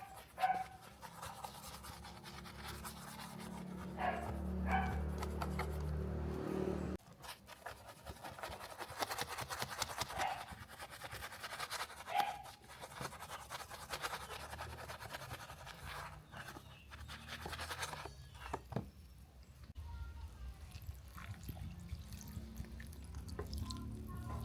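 Brush scrubbing a small hard surface, a rough scratchy hiss, with a low motor-like hum that stops abruptly about seven seconds in and comes back near the end.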